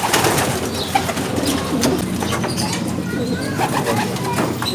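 Many racing pigeons cooing together in a loft, a steady overlapping murmur of coos, with a brief flutter of wings at the start.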